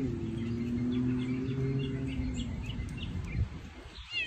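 Small birds chirping, with a quick falling call about four seconds in. Under them, for the first two and a half seconds, is a low, steady hum.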